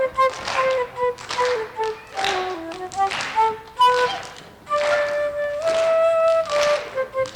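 A flute playing a slow melody, one note at a time and moving in small steps, with breath noise in each phrase and a long held note about two-thirds of the way through.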